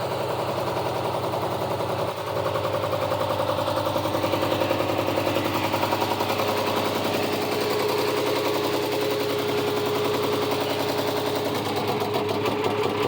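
1973 Volvo D4 inboard marine diesel running steadily in neutral with an even, rhythmic firing beat, warming up after a glow-plug cold start.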